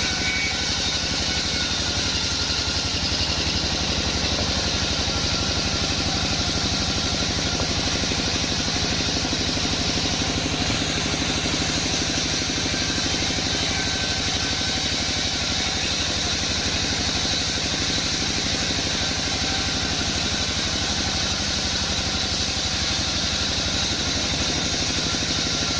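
Sawmill machinery running steadily: a continuous engine drone with a constant hiss from the band saw, with no change in load.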